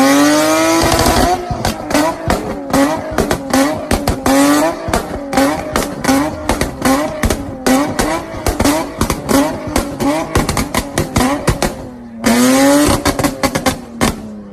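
Engine revved hard, then blipped over and over while the exhaust crackles and pops in rapid bursts of sharp bangs: deliberate exhaust popping. A second long rev comes near the end.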